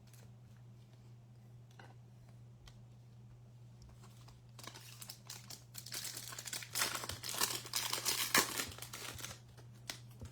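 Foil wrapper of a pack of baseball trading cards being torn open and crinkled. After a few quiet seconds with faint handling clicks, a dense crinkling and tearing lasts about five seconds, then stops near the end.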